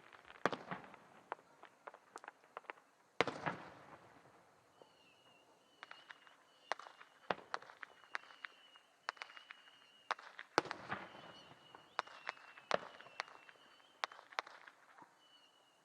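Fireworks display: a string of sharp bangs and pops at irregular intervals, the loudest about three seconds in and about ten and a half seconds in, with a faint wavering high tone through the second half.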